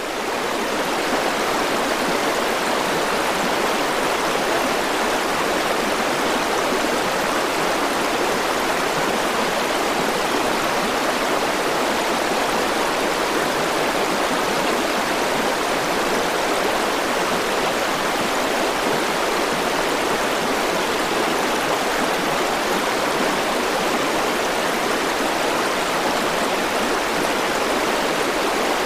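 River water rushing over its bed in a steady, even flow, with no breaks or changes.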